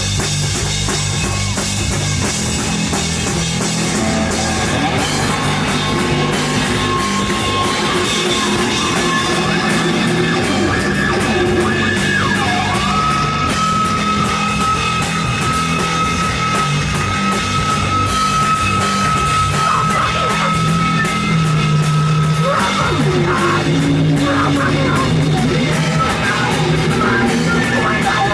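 Live rock band playing loud: drum kit, distorted guitars and bass together, with a high note held for about ten seconds in the middle.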